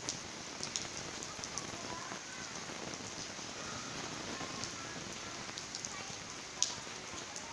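Steady rain falling, an even hiss with scattered sharp drop impacts, one louder drip-like tick near the end.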